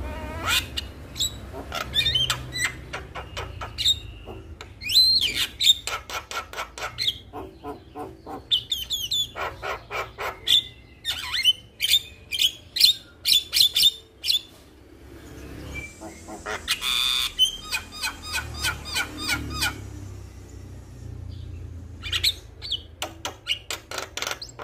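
Male Javan myna singing loudly and busily: fast runs of harsh chattering notes mixed with whistled calls, broken by a few short pauses.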